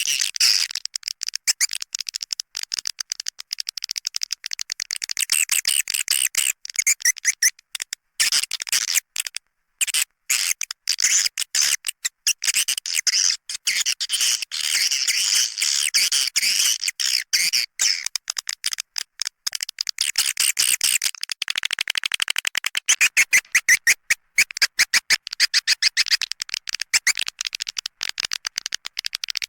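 Recorded calls of edible-nest swiftlets: a dense, fast, high-pitched chattering twitter broken by short gaps. It is a swiftlet lure call of the kind played at a swiftlet house's entry hole and interior to draw the birds in.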